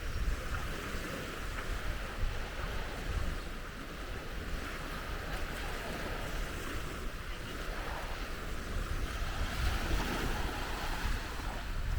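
Sea waves washing onto the beach in a steady wash of surf, with wind buffeting the microphone in low, gusty rumbles.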